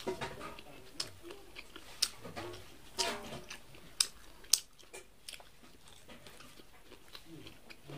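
Close-up chewing and biting of corn on the cob: wet mouth sounds broken by several sharp, crunchy clicks, which give way to softer chewing after about five seconds.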